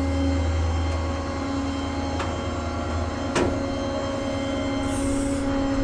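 Tow truck engine running steadily with a low hum, with three sharp metallic clicks about a second apart.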